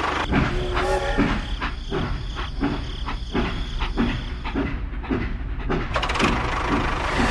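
A small machine running with a regular knock, about two beats a second.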